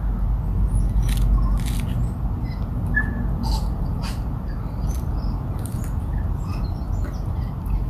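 Small birds chirping here and there over a steady low rumble, with scattered short clicks and crackles.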